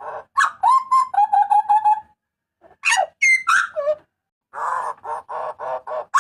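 Papuan butcherbird giving loud calls in phrases with short pauses: harsh rasping notes, a run of quick whistled notes, and sliding whistles.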